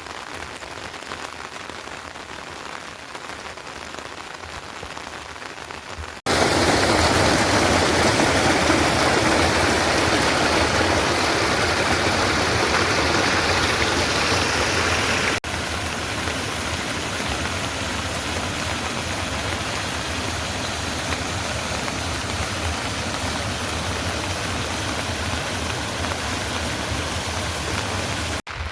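Rain falling steadily, an even hiss of drops with no other distinct sound. It jumps suddenly much louder about six seconds in and drops back partway about fifteen seconds in.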